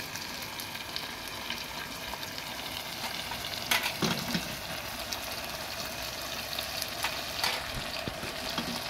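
Chicken pieces sizzling in hot oil and onion-tomato masala in a stainless steel pot, a steady frying hiss, with a couple of sharp clicks.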